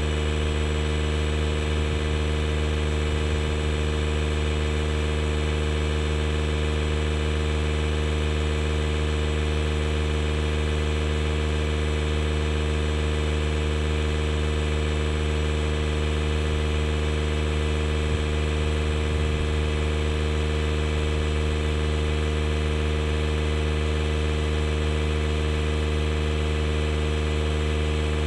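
DeWalt DCC020I cordless air inflator's compressor running steadily as it pumps up a tube-type truck tire.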